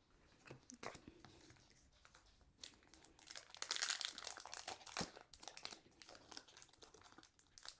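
Foil Pokémon TCG booster-pack wrapper crinkling as it is handled and torn open: scattered crackles, loudest about four seconds in, with a sharp tap just after.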